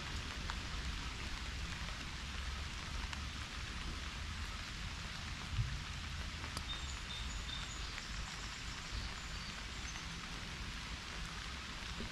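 Pouring rain falling in a steady hiss over a low rumble, with one brief low thump about halfway through.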